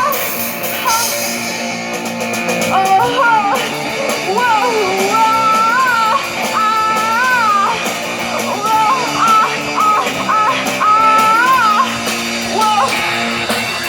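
Live punk rock band playing loud, with electric guitar, bass and drums, and a singing melody line over the band.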